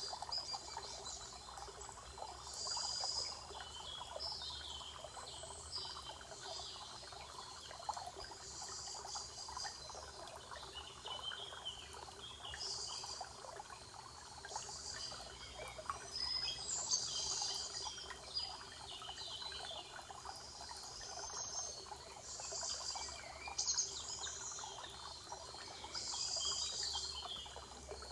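Spring forest ambience: small birds chirping and calling in short high phrases every second or two over a steady crackling, trickling background.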